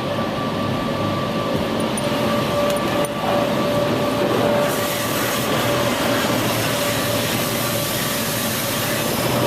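High-pressure undercarriage wash jets spraying water up against the underside of a minivan, heard from inside the cabin as a steady rushing noise with a faint steady whine beneath it. The rush gets brighter about halfway through.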